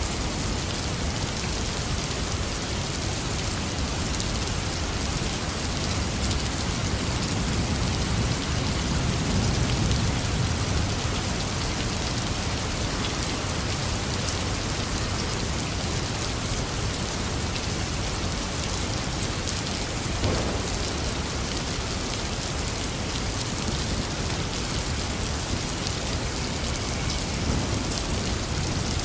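Heavy rain falling steadily, with a low rumble of thunder swelling about a third of the way through.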